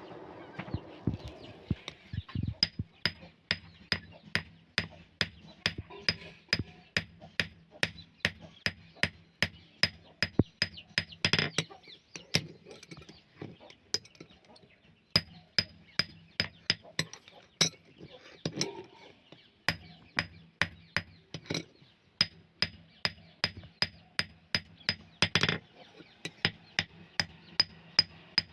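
Hammer blows on steel in a steady rhythm, about two to three strikes a second, each with a short high ring: a broken chisel being hammered into shape. A low hum runs underneath through parts of the stretch.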